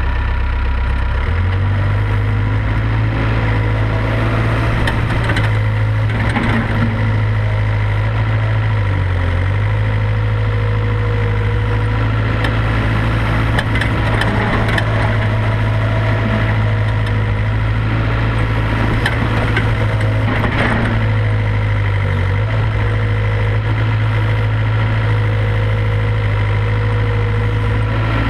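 IHI IS 75B excavator's diesel engine running steadily while it digs and loads clay. The engine note steps up a little over a second in and dips briefly twice, with occasional knocks and scrapes from the work.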